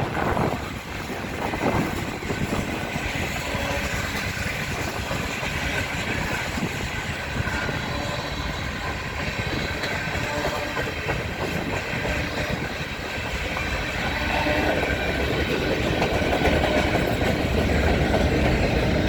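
Freight train cars rolling past on the rails, a steady rumble of wheels with some clickety-clack, growing a little louder over the last few seconds.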